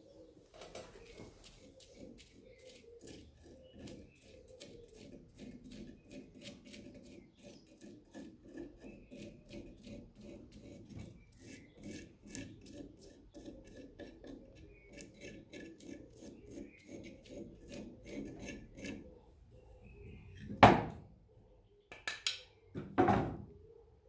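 Steel wire brush scrubbing inside a routed teak piece, a long run of quick scratching strokes that stops about three quarters of the way through. Two loud knocks follow near the end.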